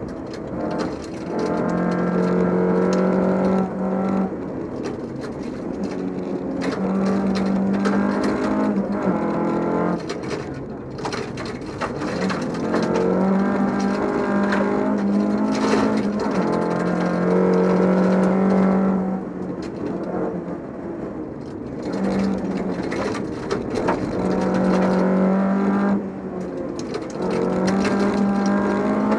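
Volvo 242 rally car's engine at high revs, heard from inside the car on a gravel stage. The note holds high for a second or two at a time, then drops off and comes back many times over, as the driver changes gear or lifts for corners. Frequent sharp clicks sound over it.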